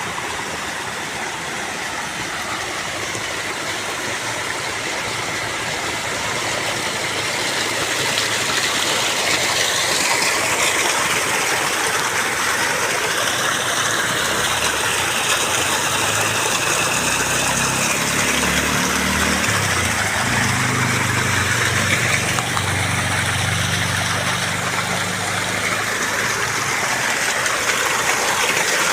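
Waterfall rushing in a steady, dense roar of falling water that slowly grows louder. From about halfway through, a low engine-like hum joins it for several seconds.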